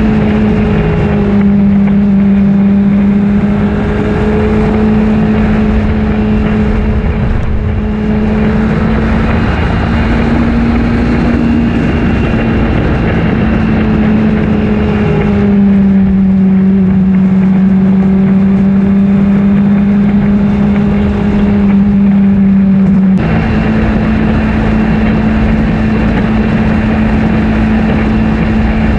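2008 Honda CBR600RR's inline-four engine running under way at a steady, high note. Its pitch eases down and back up a few times, with a sudden step up about three-quarters of the way through.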